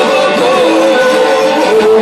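Live band music with singing, loud and continuous, as recorded in a live venue.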